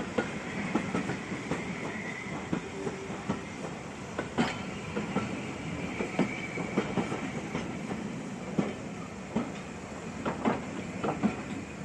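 Train wheels clattering over rail joints: irregular sharp clacks over a steady rolling rumble.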